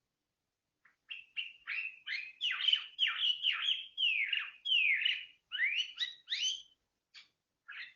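A songbird singing, a fast run of loud whistled notes that sweep down and up, starting about a second in, with a brief break near the end before it carries on.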